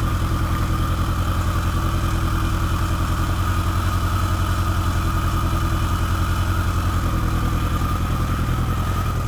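1985 Yamaha Maxim XJ700's 696 cc inline-four engine idling steadily, warming up on part choke after a week without being started.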